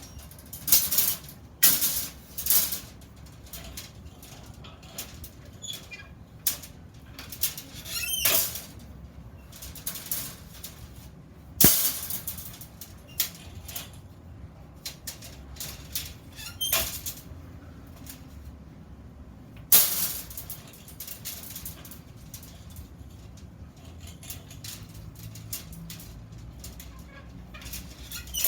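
Metalworking noises: irregular short hissing bursts, each under a second, with scattered clicks and a sharp knock near the middle.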